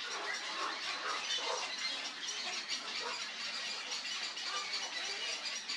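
Scattered short bird calls, mostly in the first couple of seconds, over a steady hissing background chorus of outdoor wildlife.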